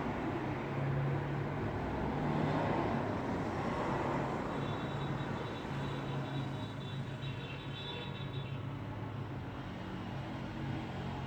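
Road traffic: vehicles driving past with a steady rush of tyres and a low engine hum, and a faint high whine from about four to eight seconds in.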